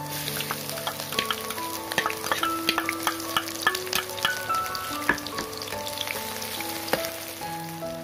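Chopped ginger and garlic hitting hot oil in a wok and sizzling hard from the moment they land, with a steel spatula clicking and scraping against the pan as they are stirred.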